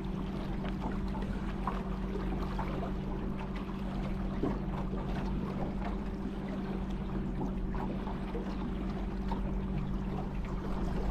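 Water trickling and splashing around a small boat on a river, with small ticks and drips throughout, over a steady low motor hum.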